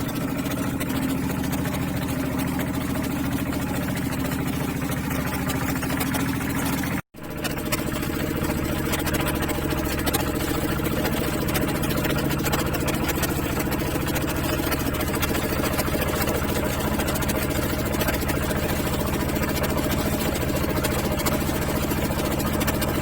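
Small fishing boat's motor running steadily. The sound cuts out for a split second about seven seconds in, then the engine carries on with a slightly different pitch.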